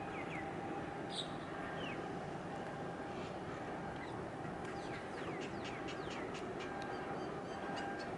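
Steady outdoor background rumble with small birds chirping over it: a couple of short calls early, then a flurry of quick, high, falling chirps about five seconds in.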